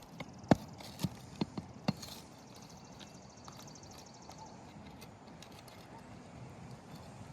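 Roofing nail being worked out of an old asphalt shingle with a metal tool: about five sharp knocks in the first two seconds, then a faint fast ticking for a couple of seconds before it goes quiet.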